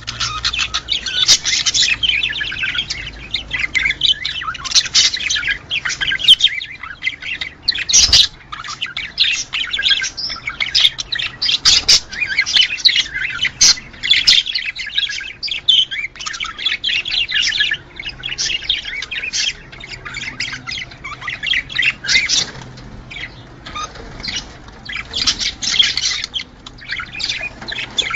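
Budgerigars chattering and warbling, a dense, unbroken stream of overlapping chirps and squawks, with a single sharp click about eight seconds in.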